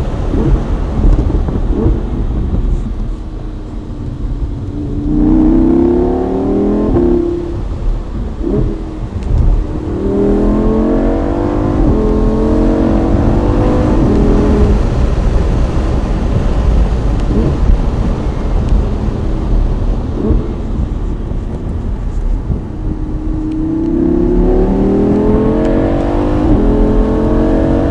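2016 Lamborghini Huracan Spyder's V10 accelerating hard several times, rising in pitch through each gear and dropping at the upshift. Heavy wind rumble on the open-top cabin microphone runs underneath.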